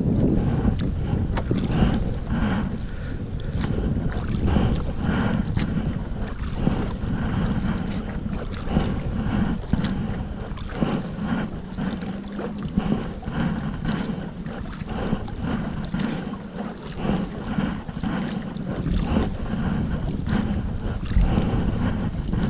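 Wind buffeting the microphone with a low rumble, heaviest at the start and end, over repeated splashes and drips of water from kayak paddle strokes.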